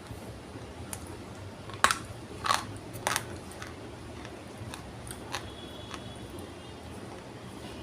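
Dry multani mitti (Fuller's earth) clay being crunched: a few scattered sharp snaps and crackles, the loudest about two seconds in, more around three seconds and one near five seconds, over a steady faint hiss.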